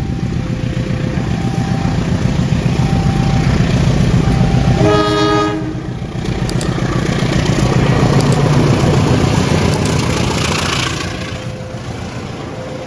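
Train passing through a station at speed with a heavy, loud rumble, its horn sounding one short blast about five seconds in. A two-tone warning signal alternates between two pitches near the start and again near the end.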